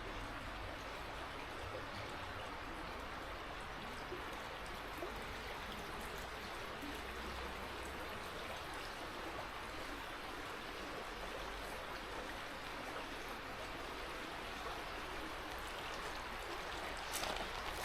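River water running steadily, a continuous even rush. Footsteps on the path start near the end.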